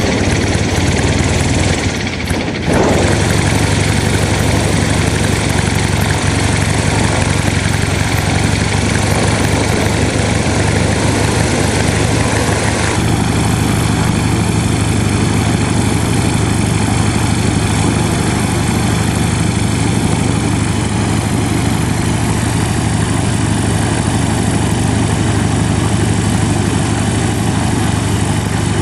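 An aircraft engine running steadily, with a brief dip in level about two seconds in.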